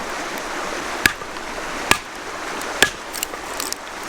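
Hatchet blade set in a natural split in a piece of firewood, knocked three times about a second apart to split it into kindling: short, sharp wooden chops, with a steady rushing hiss underneath.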